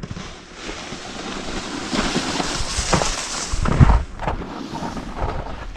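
Wind rushing over the microphone and skis sliding on snow as the skier moves downhill, growing louder about two seconds in, with a heavy low thump near four seconds.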